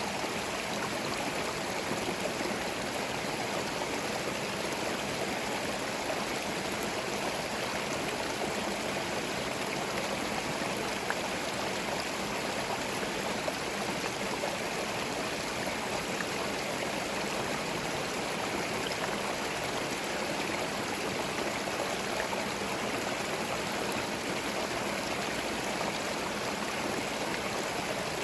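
Forest stream flowing steadily over stones, a constant rushing and gurgling of water.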